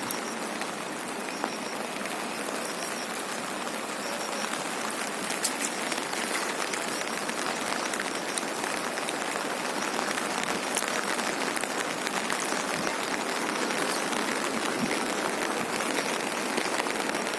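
Heavy rain falling: a steady, dense hiss of pattering drops, growing slightly louder over the first few seconds.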